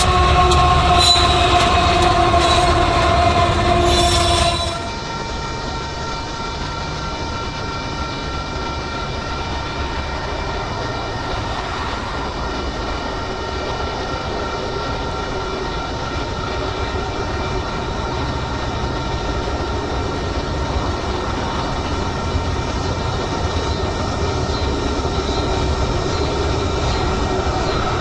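Freight train on the tracks: a loud held pitched tone for the first few seconds, then an abrupt change to the steady rumble of passing rail cars with faint high squealing tones, building slightly near the end.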